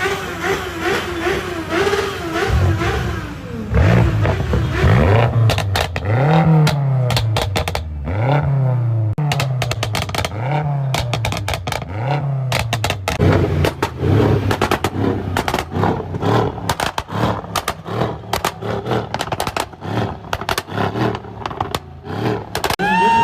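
BMW M car's engine revving: a series of blips that rise and fall about every two seconds. Many sharp crackles and pops come from the exhaust, thickest in the middle and later part.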